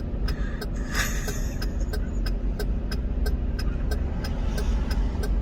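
Steady low vehicle rumble, like a car running, with a sharp regular tick about three times a second.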